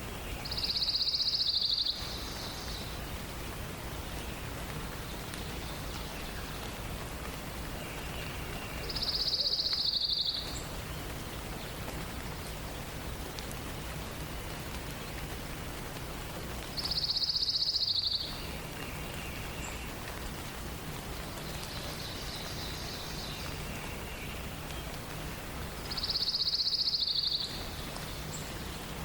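A songbird repeating a short, dense trill four times, about every eight seconds, with fainter songs from other birds between, over a steady hiss.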